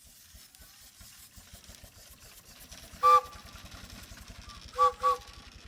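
An engine running with a low, rapid, even beat, likely a vintage tractor engine. Over it, a horn gives one short toot about three seconds in, then two quick toots near the end.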